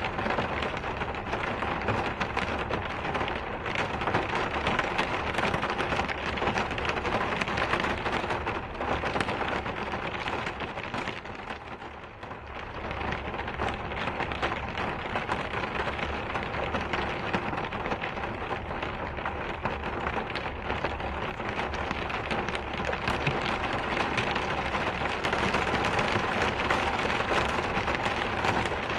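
Steady heavy rain falling on a surface, a dense even hiss with a low rumble underneath. It softens briefly about twelve seconds in, then comes back to full strength.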